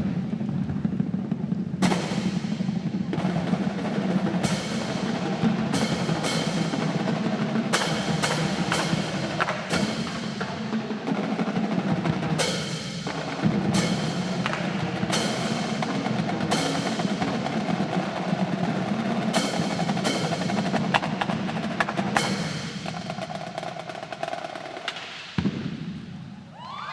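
Marching drum line playing a battle cadence: snare drums rolling and striking over bass drums, with frequent sharp accents. It stops abruptly about 25 seconds in.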